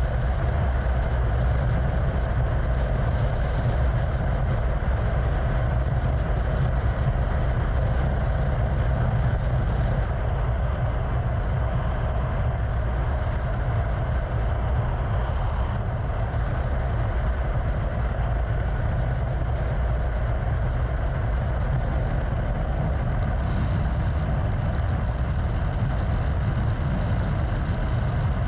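Yamaha FZ6 Fazer's 600cc inline-four cruising at a steady highway speed, with heavy wind rush on the helmet-mounted microphone and no revving or gear changes.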